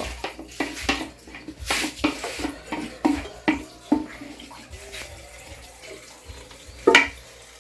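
Kitchen clatter: a run of short knocks and scrapes of a utensil against a pot, with a brief rush of water about two seconds in, then a quieter stretch and one sharp knock near the end.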